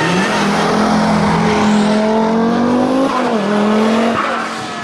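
Rally car's engine at full throttle, rising in pitch under acceleration, with a sharp dip at a gearshift about three seconds in before it climbs again. Near the end the pitch drops and the sound fades as the car moves away.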